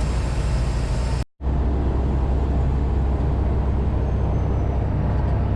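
Semi truck's diesel engine and road noise heard steadily from inside the cab while driving, a deep even drone. The sound drops out completely for a moment about a second in, then resumes.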